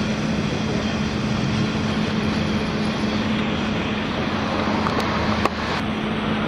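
Mountain railway train running: a steady rumbling noise with a constant low hum, and a single click about five and a half seconds in.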